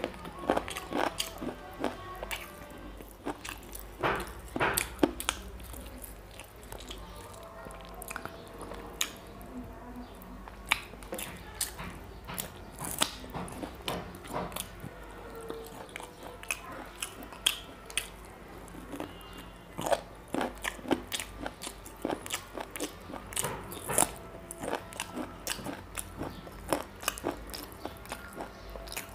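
Close-miked eating of chicken curry and rice by hand: biting meat off chicken leg pieces and chewing with the mouth open, as many irregular wet clicks and smacks.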